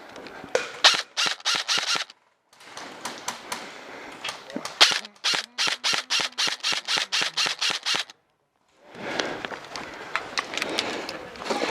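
Airsoft rifle firing two long strings of rapid, evenly spaced shots, about seven a second, with a pause of a couple of seconds between them.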